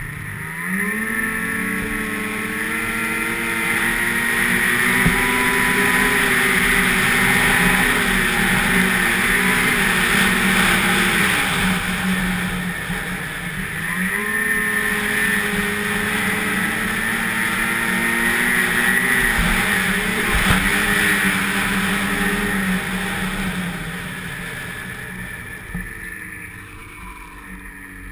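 Snowmobile engine revving up hard about half a second in and running at speed, easing off briefly about halfway through before picking up again, then dropping in pitch and getting quieter near the end.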